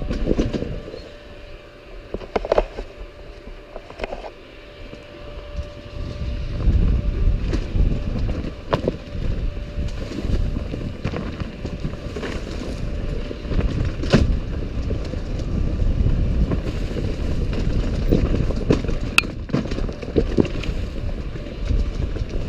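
Wind buffeting a body-worn camera's microphone as a low rumble that grows stronger a few seconds in, with irregular footfalls of a racer moving along a forest trail.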